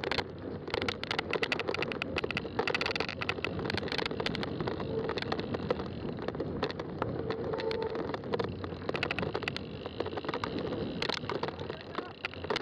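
Fat-tire bike rolling along a trail: steady tyre noise with many small clicks and rattles from the tyres, trail surface and bike.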